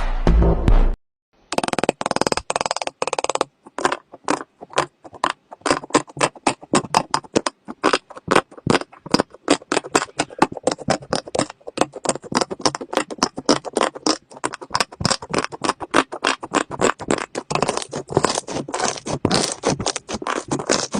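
Rapid, irregular clicking and tapping, several clicks a second.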